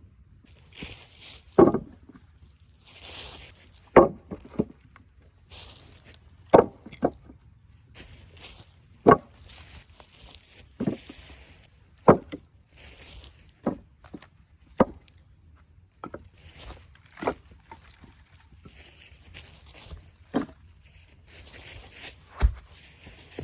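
Firewood being split: a series of sharp wooden strikes at an uneven pace, roughly one every one to two seconds, some followed by a brief rustle or crackle of wood.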